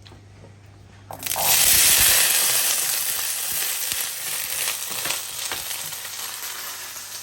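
Food dropped into hot oil in a pan, sizzling loudly about a second in, then frying steadily as the hiss slowly eases, with a few light scrapes and clicks of stirring.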